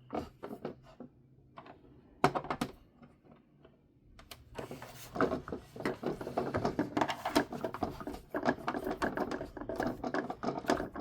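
Screwdriver and small screws working in a plastic toy car body, with parts being handled: a few separate clicks at first, then from about four seconds in a long run of fast, close-set clicking and rattling.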